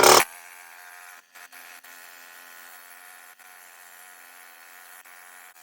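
A sharp, loud burst right at the start, then a faint, steady electric buzz.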